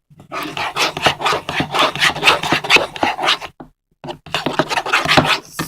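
Rapid, repeated scraping strokes of a utensil against a container as white glue and dish soap are stirred together into slime. The strokes stop for about half a second a little after three and a half seconds, then resume.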